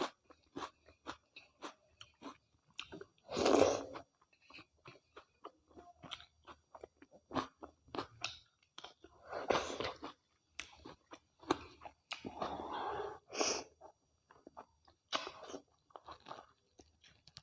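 A person eating mutton curry with rice close to the microphone: steady chewing with many wet smacking clicks, and a few louder, longer mouth sounds in between.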